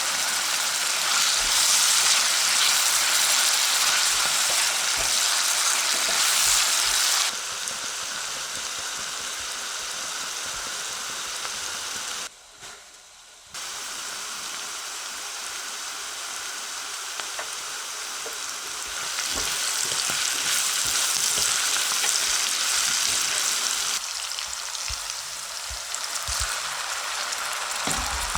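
Food sizzling in olive oil in a frying pan, a steady high hiss that steps down in level about 7 s in and drops out briefly about 12 seconds in, then grows louder again from about 19 s.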